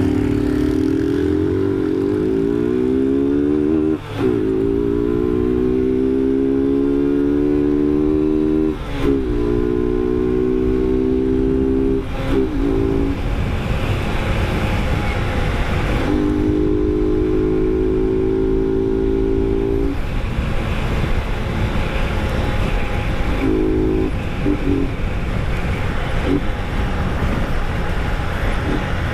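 Motorcycle engine accelerating through the gears: the pitch climbs, drops sharply at an upshift, and climbs again. It then holds steady cruising revs in stretches, broken by short gaps off the throttle, over a steady rush of wind noise.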